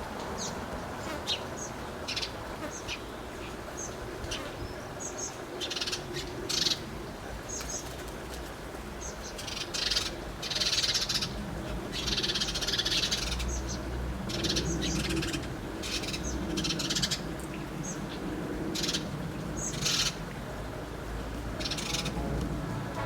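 Small garden birds chirping at a feeder: many short, high chirps scattered throughout, with busier stretches of chirping around the middle.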